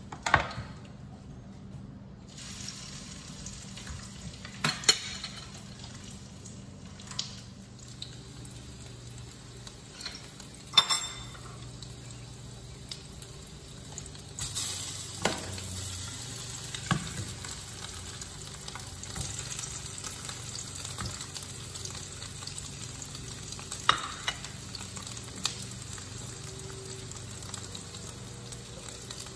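A few sharp knocks in the first half, the first a knife chopping hot dogs on a plastic cutting board. From about halfway on, hot dog pieces sizzle steadily as they fry in a square nonstick frying pan.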